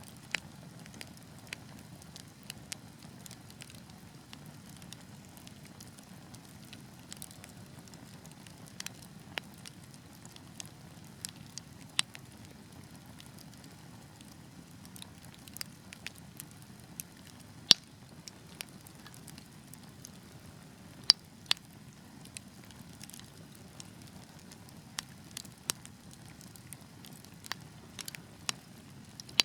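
Wood fire burning with a low steady rumble and scattered sharp crackles and pops, a few of them much louder than the rest.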